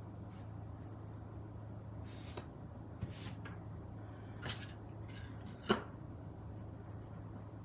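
A few brief rustles and light taps of card stock being handled at a crafting desk, the loudest a sharp tap a little under six seconds in, over a steady low hum.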